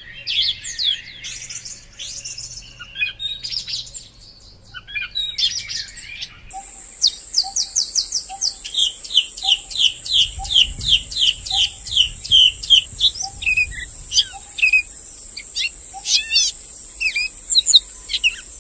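Birds chirping and singing. About six seconds in the sound changes abruptly: one bird repeats a quick falling note about three times a second, over a steady high whine.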